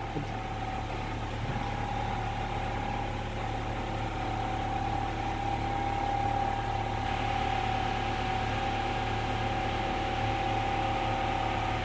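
Steady mechanical hum with a constant pitch; a faint hiss grows a little stronger about seven seconds in.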